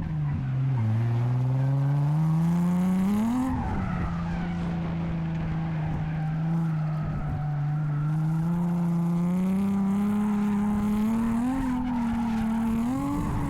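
Nissan 350Z's V6 engine under throttle in a drift, with tyres skidding. The revs climb to a peak about three and a half seconds in and fall back, then hold and slowly rise, with two short blips near the end.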